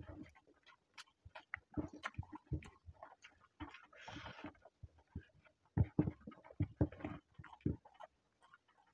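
Close-up chewing and lip-smacking of a man eating a mouthful of rice and egg curry: a string of irregular wet smacks and clicks.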